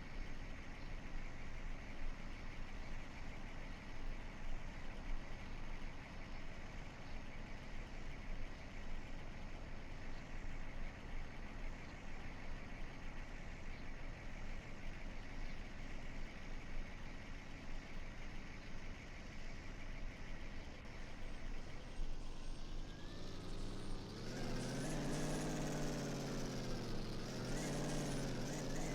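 Steady vehicle background noise, then about three quarters of the way through a truck's engine is revved up and down several times, its pitch rising and falling; this revving is the loudest sound.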